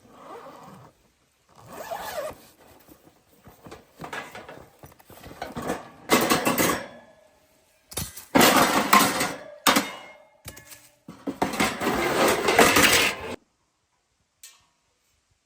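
Cookware and utensils being handled, clattering and clinking in a series of bursts that grow louder in the second half and stop near the end.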